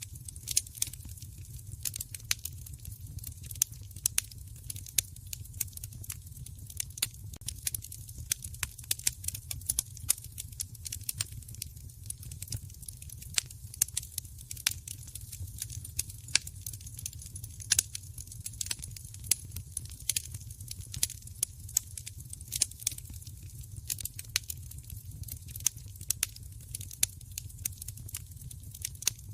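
Wood fire in a fireplace crackling: a dense, irregular run of sharp pops and snaps over a steady low rumble.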